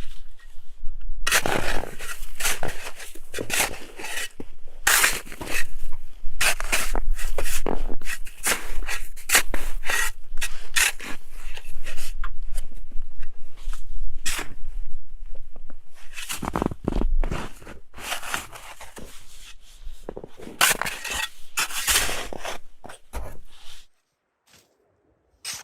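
Irregular scraping and crunching strokes, some grouped in quick runs, stopping about a second and a half before the end.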